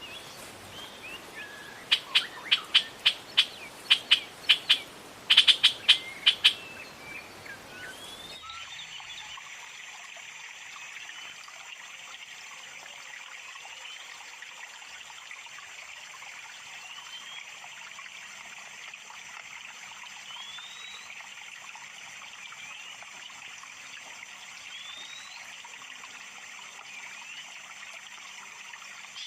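Small wild birds chirping over a steady trickle of water. Near the start there are two runs of loud, sharp clicks, about three a second, before the sound changes abruptly.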